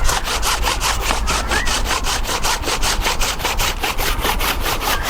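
Hand saw cutting through a thick apple tree branch, in fast, even rasping strokes, about five a second.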